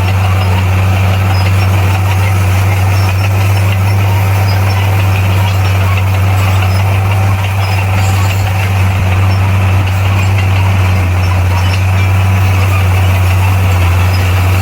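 Bulldozer's heavy diesel engine running steadily at an even pitch, with a deep hum under the noise of the machine.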